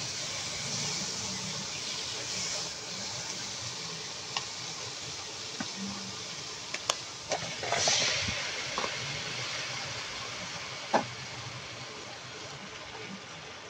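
Chicken livers with onion and garlic sizzling steadily in a frying pan, with a few sharp clicks of a spatula against the pan. About eight seconds in there is a louder, brief rush of noise.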